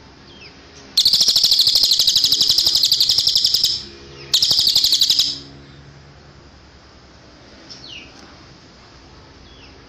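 Cililin songbird singing a loud, very fast high trill of about three seconds. After a brief pause comes a second, shorter trill, and a few faint downward-sliding chirps follow near the end.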